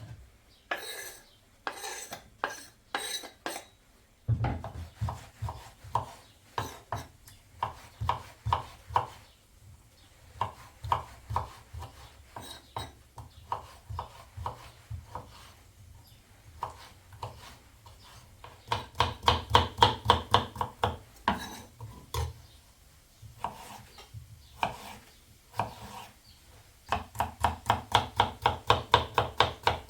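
Knife chopping on a cutting board in quick, even runs of about five strokes a second, with pauses between runs.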